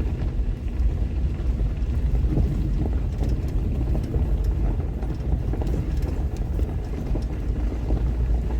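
A vehicle driving, heard from inside: a steady low engine and road rumble with many small rattles and knocks.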